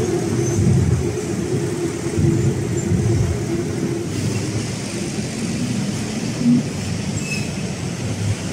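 Elevated BTS Skytrain running past over steady street traffic, with a steady whine that drops away about four seconds in.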